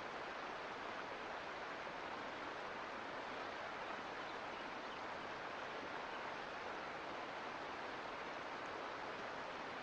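Mountain creek water rushing and splashing over rocks in a steady, even wash.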